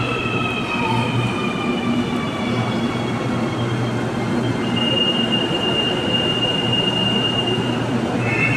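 Interior of a CAF AS-14 metro train running on rubber-tyred Line 3 track, with a steady low rumble and an electric motor whine that falls slowly in pitch as the train slows. A thin high tone holds steady from about halfway through until near the end.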